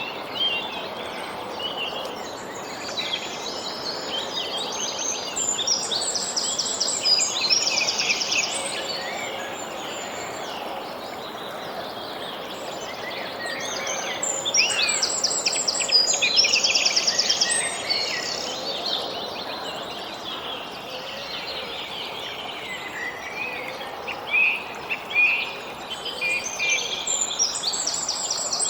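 Songbirds singing in repeated trilled and chirping phrases that swell every several seconds, over a steady soft background hiss.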